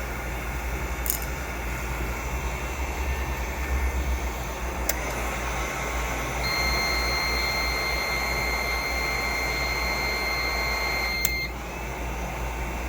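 Heat gun blowing steadily as it heats a plastic blob on a 3D printer hot end. A thin high whine joins in about halfway through and cuts off shortly before the end.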